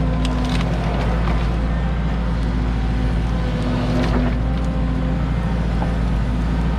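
Cat 313 excavator's diesel engine running steadily under working load, with a few sharp knocks and cracks near the start and about four seconds in.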